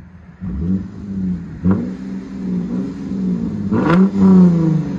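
Lexus IS 250's 2.5 L V6 revved through an aftermarket modified exhaust: a steady idle broken by short throttle blips, the largest about four seconds in, the pitch falling back toward idle after each one.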